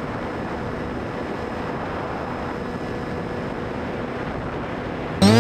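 Steady background hiss, then near the end a homemade RC airplane's motor and propeller spin up suddenly: a sharp rise in pitch that settles into a loud steady whine.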